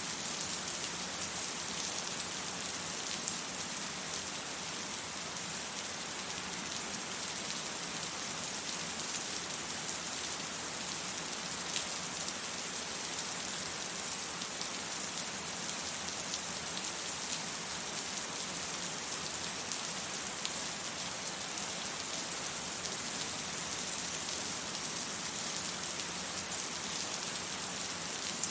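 Steady rain falling, an even hiss with scattered drop ticks. No thunder is heard.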